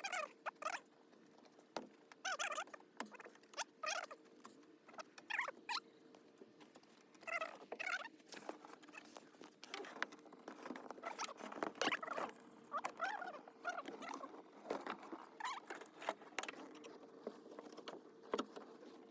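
Irregular scraping, clicking and squeaking of parts being handled in hand repair work, in short uneven bursts over a faint steady hum.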